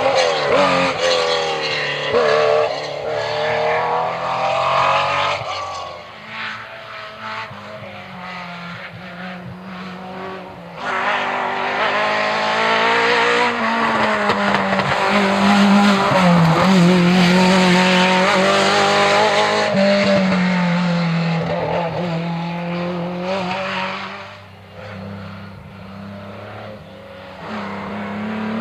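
Historic rally cars at full race pace on a stage, engines revving hard and the pitch climbing and dropping with each gear change and lift. The engine noise swells loudest in the middle, fades, and builds again near the end as another car comes through.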